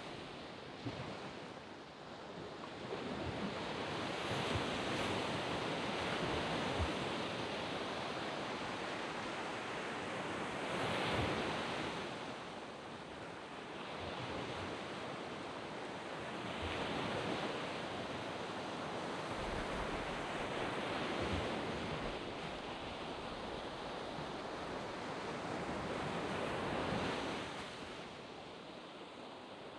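Surf breaking on a sand beach: a steady wash of waves that swells and recedes, with a louder break every five or six seconds.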